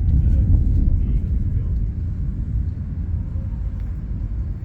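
Deep rumble of thunder rolling and slowly fading.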